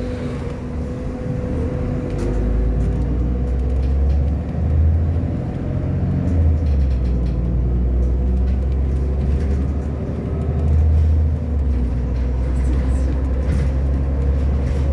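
Irisbus Agora L articulated city bus's diesel engine running as the bus drives. A low rumble swells and eases several times under a steady whine.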